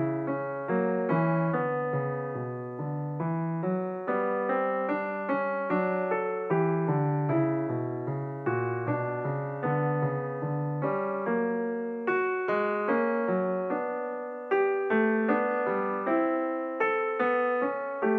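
Background piano music: a steady run of struck notes, each fading before the next.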